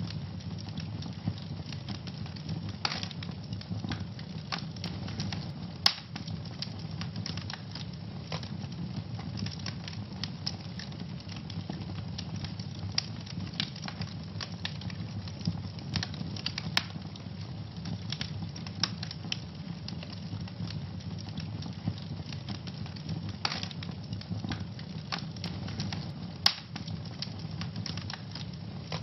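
Wood fire burning in a fireplace: a steady low rumble of flames under constant crackling, with a couple of sharper, louder pops, one about six seconds in and one near the end.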